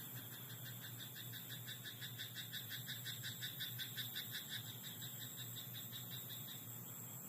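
Frog in a rice paddy croaking in a rapid, even series of about six calls a second, swelling in the middle and fading out near the end, over a steady high insect trill and a low hum.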